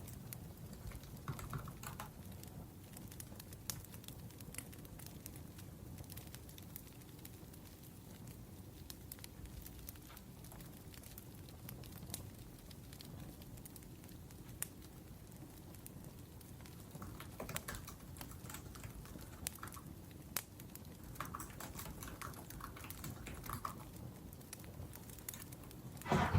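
Soft laptop keyboard typing in bursts, busiest in the last third, over the steady low crackle of a wood fire.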